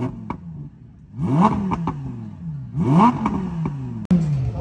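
Sports car engine revved in about three quick throttle blips, each rising fast and falling back slowly, with sharp pops from the exhaust in between.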